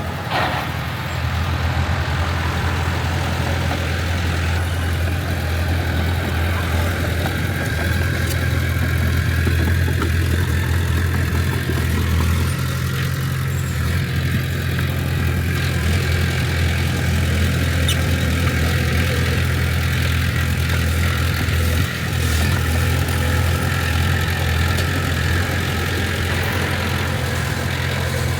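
Heavy construction machine's diesel engine running steadily with a low, even hum. There is a sharp clank near the start and a brief dip in level about three quarters of the way through.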